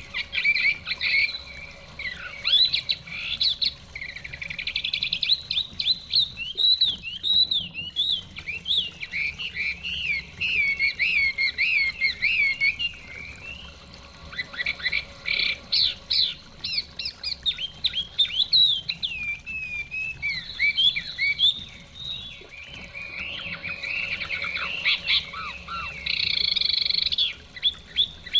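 Chinese hwamei (họa mi) singing in a long, continuous run of fast, varied whistled phrases, with a faint steady rush of stream water underneath.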